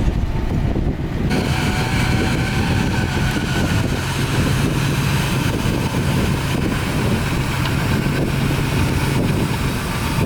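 Heavy diesel earthmoving machinery running steadily, with wind on the microphone; the sound turns brighter and fuller about a second in.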